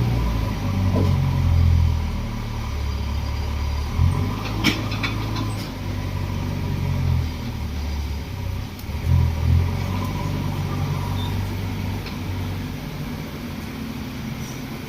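Diesel engines of JCB 3DX backhoe loaders working, the low engine note swelling and easing with the load. There is a sharp knock about four and a half seconds in.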